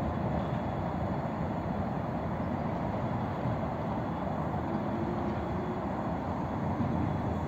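Passenger train approaching on the rails, a steady low rumble.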